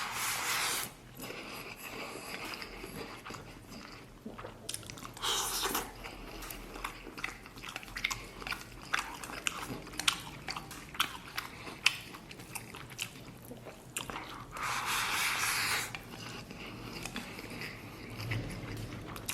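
Close-miked eating of braised beef and rice: steady chewing with many small wet clicks and smacks. Three longer hissing bursts stand out, one at the very start, one about five seconds in and one about fifteen seconds in.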